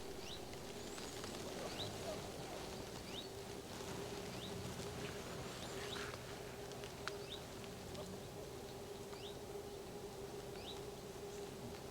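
Faint, scattered short bird chirps over quiet outdoor background noise, with a steady low hum underneath.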